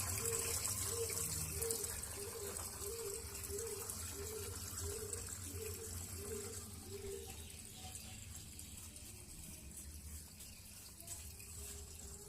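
Water running steadily, with a faint tone repeating about twice a second over the first seven seconds.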